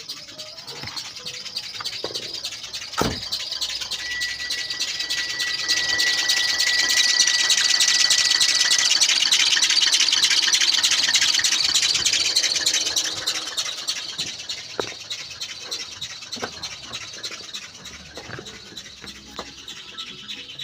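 Worn engine drive belt making a high-pitched, rapid chirping chatter: the sign of a bad belt. It swells louder in the middle and fades toward the end, with a thin steady whistle for a few seconds and a single knock early on.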